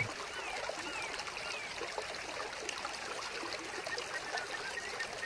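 Water trickling steadily from a small vivarium waterfall, with light bubbling.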